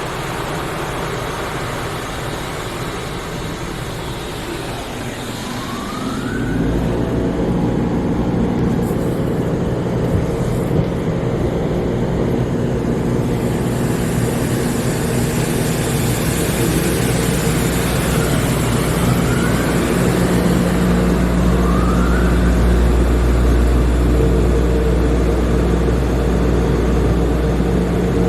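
MacNeil tunnel car wash equipment heard from inside the car on the conveyor: a steady wash of spraying water and motor hum. A deeper drone comes in about six seconds in and grows louder past the middle.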